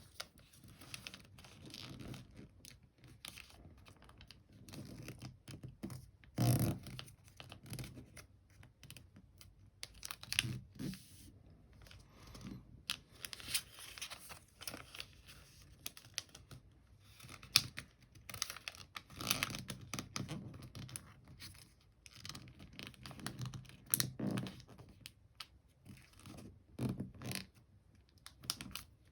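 A sheet of paper being folded by hand, with irregular rustling and scraping as it is handled and fingers press and run along the creases.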